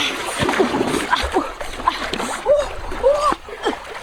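Water splashing, with several short arched calls, the clearest about two and a half and three seconds in.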